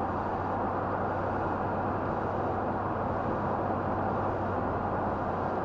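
Steady road, tyre and engine noise inside a pickup truck's cab while it drives, an even hiss over a low steady hum with no change in pitch or level.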